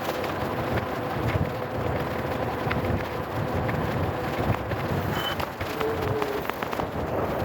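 Riding noise from a moving e-bike: a steady low rumble of wind on the microphone and tyres on the road, with scattered small clicks and rattles.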